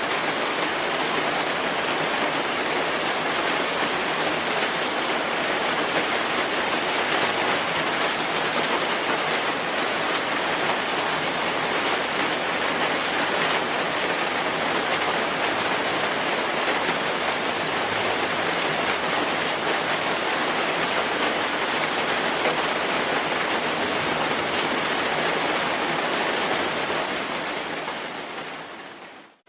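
Steady rain falling, an even hiss of many drops with no single sound standing out. It fades out quickly over the last couple of seconds.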